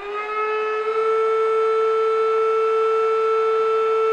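Electric air pump running to re-inflate an inflatable kayak: a loud, steady motor whine that settles to full speed in the first moment and then holds one even pitch.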